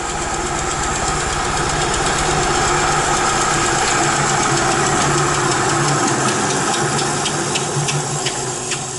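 Harbor Freight 10-inch benchtop bandsaw running and cutting a thin slice off a pine 2x4 block, a steady motor hum under the hiss of the blade in the wood. It eases off near the end with a few light ticks as the cut finishes.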